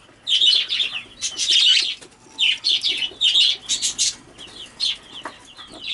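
Budgerigars chirping and chattering in quick, shrill bursts, several calls running together, then short pauses.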